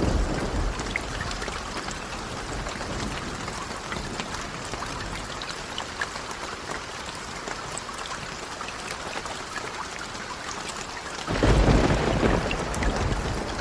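Steady heavy rain. A low thunder rumble dies away at the start, and a loud new clap of thunder rolls in about eleven seconds in.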